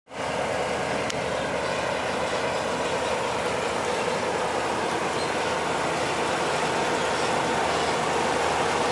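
A heavy vehicle's engine running steadily under road noise, building slightly near the end.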